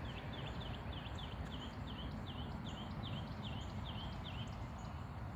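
A bird singing a fast series of short, identical chirps, about three a second, slowing slightly and stopping near the end, over a steady low rumble.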